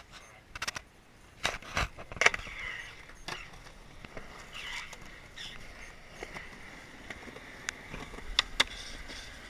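Skateboard on wet pavement: a handful of sharp clacks and knocks of the board, most in the first few seconds and two close together near the end, over a faint steady hiss.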